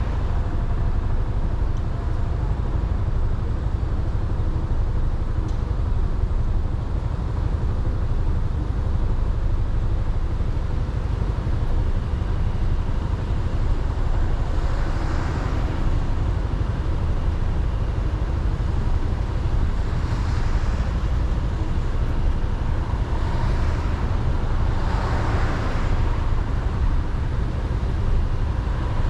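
Riding noise on a moving Suzuki Burgman 400 scooter: a steady low rumble of wind and engine. Passing traffic swells and fades four times, once about halfway through and three more times near the end.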